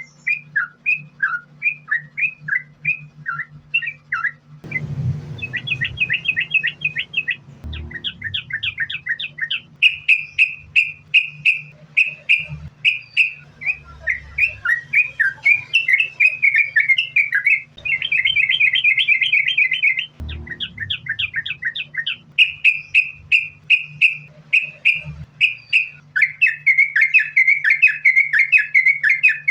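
Yellow-vented bulbul (trucukan) singing without a break, in fast runs of short chattering and bubbling notes, over a steady low hum.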